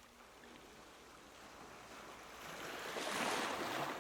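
Faint ambient water sound: a soft rush like a wave washing in, swelling in the second half and easing off near the end.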